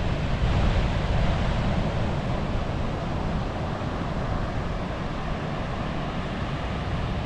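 Ocean surf washing on a beach, with wind buffeting the microphone: a steady rushing noise with a heavy low rumble.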